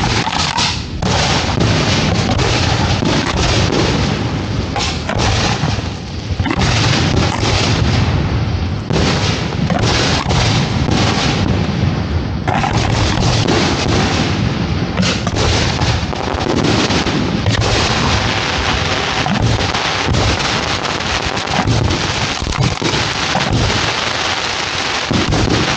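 Dense, continuous barrage of fireworks shells bursting, with booms and crackle overlapping almost without a break, heard from the firing site.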